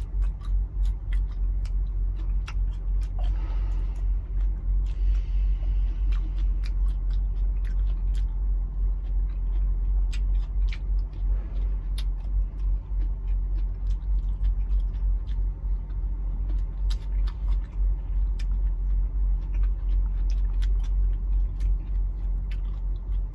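Steady low rumble, with many small sharp clicks and taps scattered over it and a brief hiss a few seconds in.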